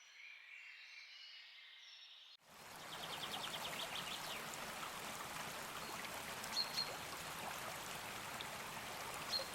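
Faint birdsong, then after a sudden cut about two seconds in, the steady rush of flowing river water, with a few short bird chirps over it.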